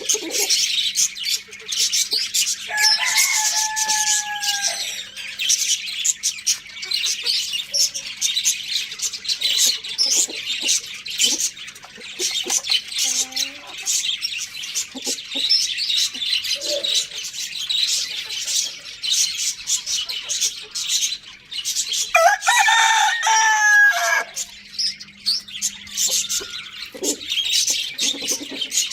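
A constant chatter of many small birds chirping, with a rooster crowing twice, about three seconds in and again about twenty-two seconds in, each crow lasting about two seconds.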